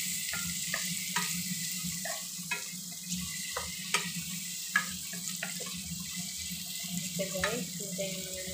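Cucumber, garlic and dried shrimp sizzling as they stir-fry in a non-stick pan, with a wooden spatula knocking and scraping against the pan every second or so. A steady low hum runs underneath.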